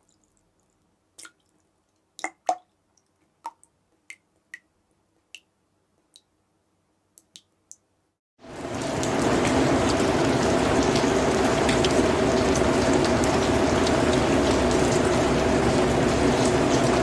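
Single water drops falling at irregular intervals, about a dozen plinks of differing pitch. A little past halfway, steady heavy rain comes in quickly and keeps up.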